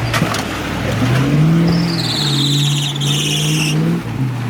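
Off-road 4x4's engine revving up about a second in, held for a few seconds, then easing off near the end. A loud high-pitched squeal sounds over it for about two seconds in the middle.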